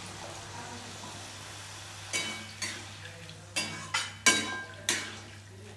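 Food sizzling faintly in a cooking pot, then a metal spoon clinking against the pot about six times, each clink ringing briefly.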